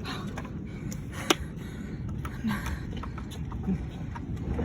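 Low wind rumble on the microphone with scattered small taps and clicks, including one sharp click about a second in.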